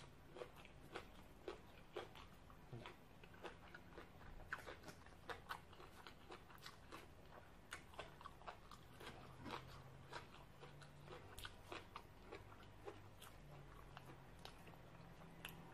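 A person chewing a mouthful of papaya salad and raw vegetables close to the microphone: faint, irregular wet clicks and crunches, about two a second.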